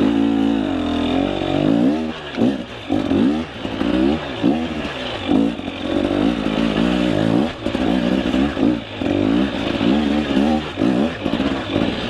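KTM 300 EXC two-stroke dirt bike engine revved up and down over and over in short throttle bursts, about once a second, as the bike struggles up a steep, rough climb after the rider hesitates.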